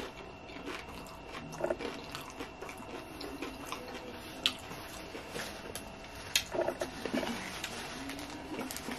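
Close-up mouth sounds of a person chewing a bite of loaded tortilla-chip nachos with sour cream, mouth closed: soft wet chewing with scattered small clicks.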